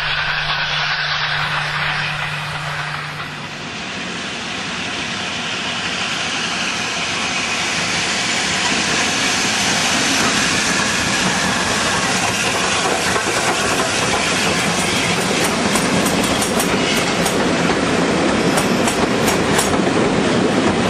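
Train hauled by the LNER A4 Pacific steam locomotive 60019 Bittern running past. The rushing noise of the train builds steadily, and in the last few seconds there are rapid clicks of wheels over rail joints.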